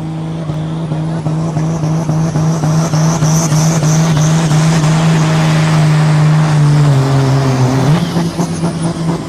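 Super Sport pulling tractor's diesel engine running hard at a steady, high pitch on a pull. Its pitch sags about two-thirds of the way through, then picks back up.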